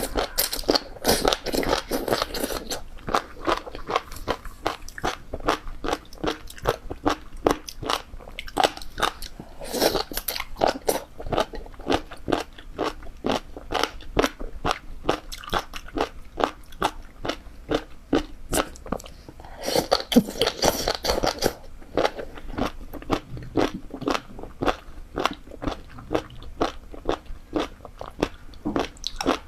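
Close-up crunching and chewing of spicy jellyfish, a fast run of crisp crunches several times a second. Louder bouts of biting come about a second in, about ten seconds in and around twenty seconds in.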